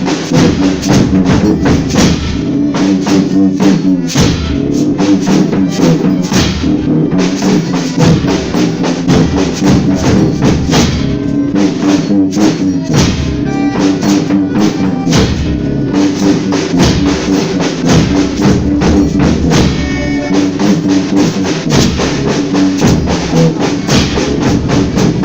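Folia band playing an instrumental passage between sung verses: drums and tambourines beating fast and steadily over held chords.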